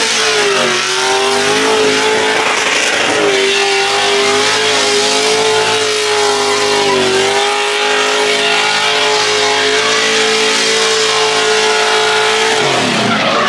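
Drift car engine held at high, steady revs, its note dipping briefly a few times as the throttle eases and comes back on.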